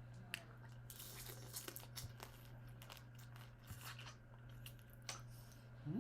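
Faint crackling and crunching of a shell-on prawn being pulled apart and chewed, with scattered small clicks.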